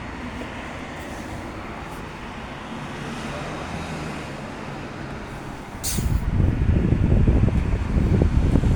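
Steady background noise of distant road traffic. About six seconds in, a click is followed by a loud, irregular low rumble.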